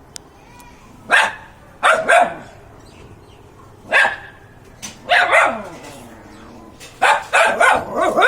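A dog barking: single barks and pairs spaced a second or two apart, then a quicker run of barks near the end.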